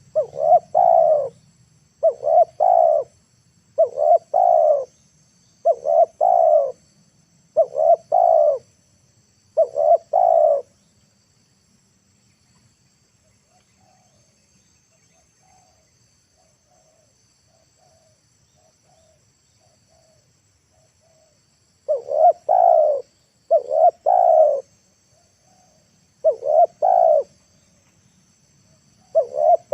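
Spotted dove cooing its repeated 'kuk-kurr' call, a phrase about every two seconds, used as a decoy to lure wild doves. Loud for the first ten seconds, then only soft faint coos, then loud again near the end, over a faint steady high hiss of insects.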